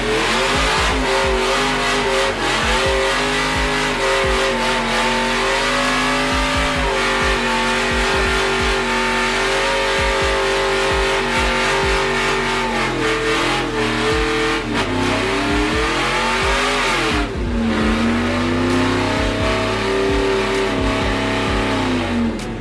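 A vehicle engine held at high revs for long stretches, with pitch dips and climbs twice in the second half, over a loud steady hiss of spinning tyres, as in a burnout.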